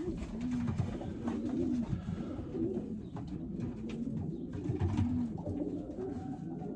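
Several racing pigeons cooing in the loft, repeated low rising-and-falling coos overlapping one another, with scattered light clicks and rustles.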